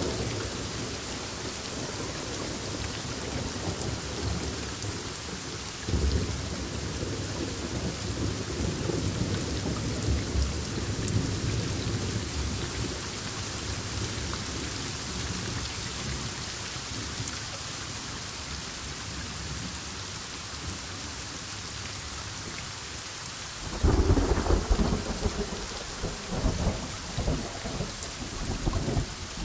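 Heavy rain falling steadily through a thunderstorm, with a roll of thunder that sets in sharply and dies away slowly. Near the end a louder, sudden thunderclap cracks and rumbles in several bursts.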